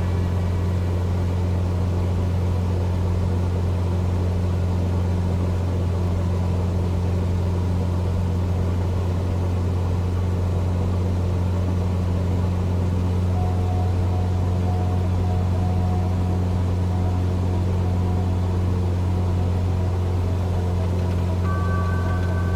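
Cessna 172's piston engine and propeller droning steadily in cruise flight, a constant low hum with noise over it.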